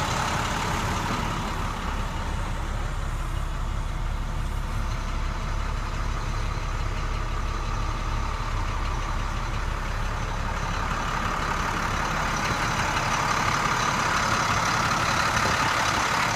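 International DT466 inline-six turbo diesel engine of a 2006 International 4300 dump truck running steadily, growing a little louder in the last few seconds.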